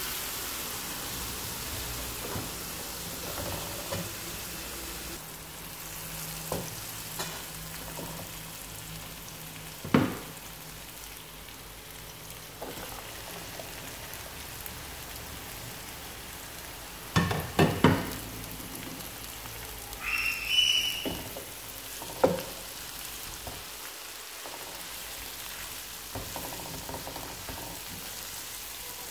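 Sliced onions and garlic sizzling steadily in olive oil in a non-stick frying pan while being stirred with a wooden spoon, the spoon knocking on the pan now and then, with a cluster of knocks past the middle. Shortly after that comes one brief high rising squeak.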